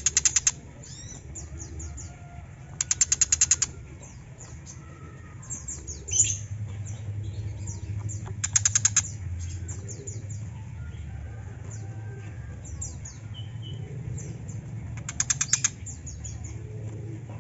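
Tiger shrike giving harsh, rapid chattering rattles, each about a second long and repeated every few seconds, with short high chirps and whistled notes between them.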